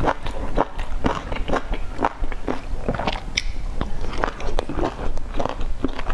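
Close-miked chewing of soft dumplings dipped in sauce: wet mouth smacks and bites, about two a second.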